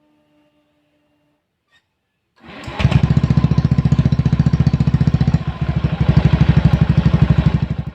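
Honda Zoomer-X's 110cc single-cylinder four-stroke engine idling through an MT8 racing exhaust pipe, a loud, rapid, even popping of exhaust pulses that begins about two and a half seconds in.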